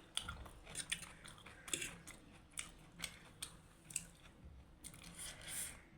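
Close-miked chewing of food, irregular soft wet clicks and smacks of the mouth, with a longer hiss near the end.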